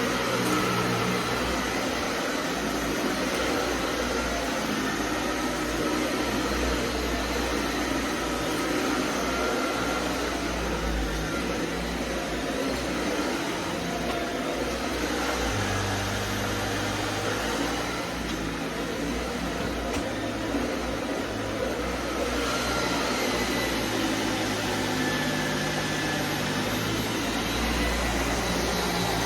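Vacuum cleaner running steadily, a constant motor whine and airflow rush, its low hum shifting a little every few seconds.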